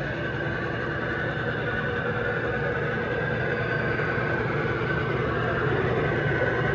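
Three-rail model train running on track: a steady rolling rumble with a faint motor whine, growing slowly louder as it comes closer.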